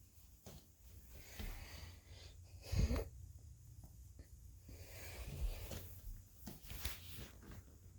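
A puppy snuffling and breathing close by, with several light knocks and a louder low thump about three seconds in.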